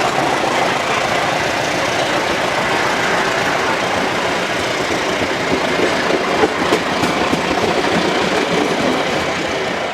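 Train running on rails: a steady rolling rumble and rattle of the wheels, with a few sharper clacks about six and a half seconds in.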